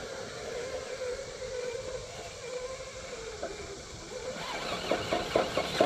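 Electric motor and gear drivetrain of a Traxxas TRX6 6x6 RC crawler whining steadily. From about four and a half seconds in, the motor comes in short throttle blips with clicks as the truck works over rock.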